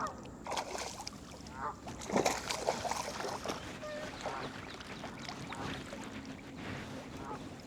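Geese honking, a string of short calls repeated over several seconds.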